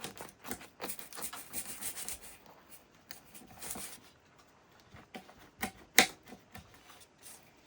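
Knife scraping and sawing through the crisp crust of a freshly baked stromboli in uneven strokes, with a few sharp knocks, the loudest about six seconds in.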